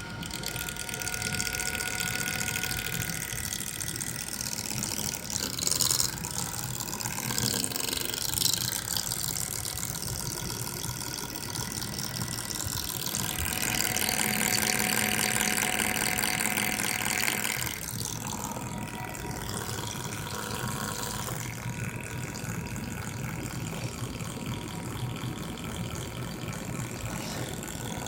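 MSI GS30 laptop's cooling fan (model PAAD07010SH N263) running with a continuous fast rattle, the sign of a faulty fan. It gets louder for about four seconds midway.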